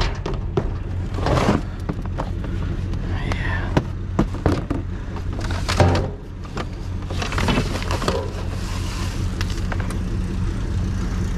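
Truck engine running at low speed, with scattered clicks, knocks and rattles over the steady hum.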